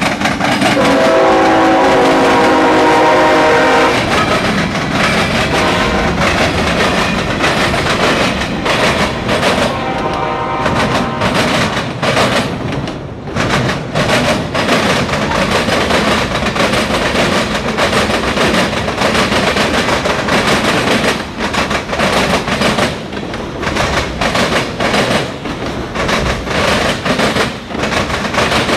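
CSX freight train passing close by: the locomotive's horn sounds one long blast, then a shorter one about ten seconds in, followed by the steady clickety-clack of the freight cars' wheels rolling over the rail joints.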